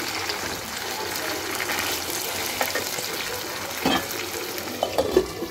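Chicken pieces sizzling in hot oil in a nonstick wok: a steady frying hiss, with a few sharp clicks about four and five seconds in.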